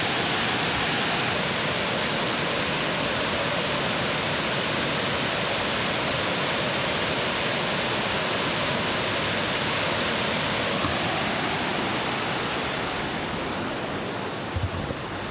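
Steady rushing of a waterfall, an even wash of falling water that fades a little over the last few seconds.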